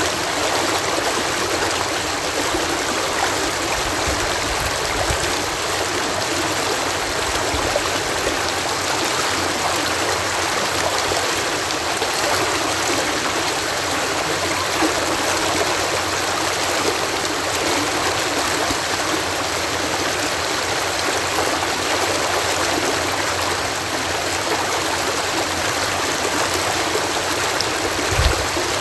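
Water cascading steadily through a canal lock, an even rushing splash with little low rumble. A brief low thump comes near the end.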